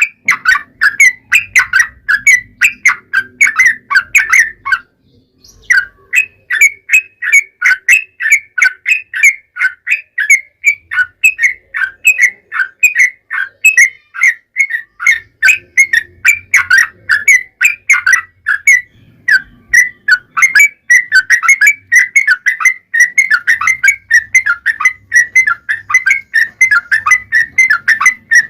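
Yellow-vented bulbul (trucukan) singing a long, continuous run of rapid, short whistled chirps, several notes a second, broken by one short pause about five seconds in.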